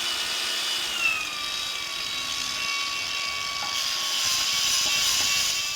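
Handheld power tool running steadily, its whine dropping a little in pitch about a second in, as it does when the tool bears on the work.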